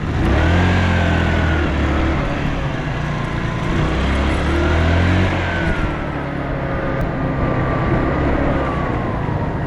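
Motorbike engine pulling away and accelerating, its pitch rising and then easing back about six seconds in, under steady wind rush.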